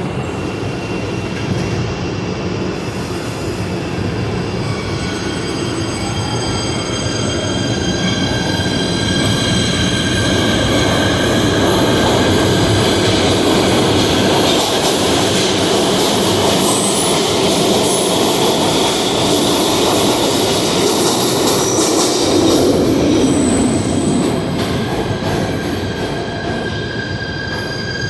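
PATH subway train running through the station, its wheels squealing on the rails: several high, steady screeching tones over a continuous rumble, growing louder through the middle and easing off near the end.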